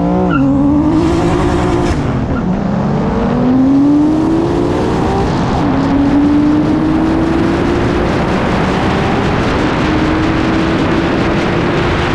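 Turbocharged car engine at full throttle on a drag run, rising steadily in pitch, with two upshifts about two seconds and five and a half seconds in.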